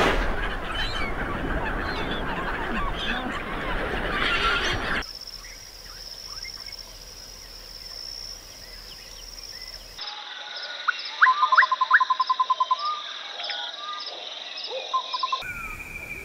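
Birds calling in a string of short outdoor clips that change abruptly about every five seconds. Over a steady high-pitched trill come many short chirps, and about eleven seconds in, a rapid run of repeated notes.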